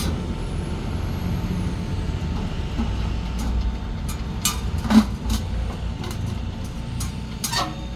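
Several sharp metallic clicks and knocks, the loudest about five seconds in, as stainless stove-pipe parts are handled and fitted together, over a steady low rumble.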